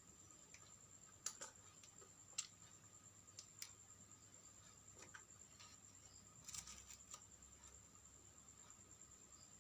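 Faint scattered clicks and taps, as of small parts being handled while taking apart a portable vacuum cleaner to replace its battery, over a steady faint high-pitched whine.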